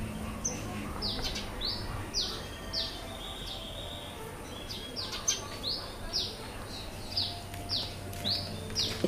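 A bird calling: a string of short, high chirps, each falling in pitch, about two to three a second, with one longer held note about three seconds in.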